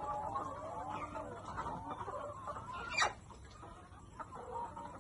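A flock of chickens clucking, with many short calls overlapping. About three seconds in, one sharp, brief sound stands out above them.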